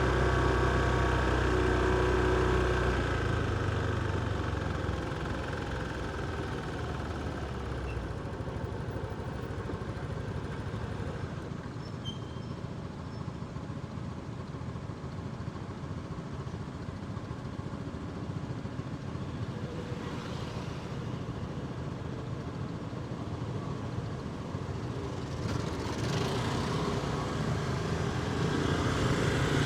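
Motorcycle ride through city traffic: a loud steady engine drone for the first few seconds, easing off to quieter road and traffic noise, then engine noise building again near the end.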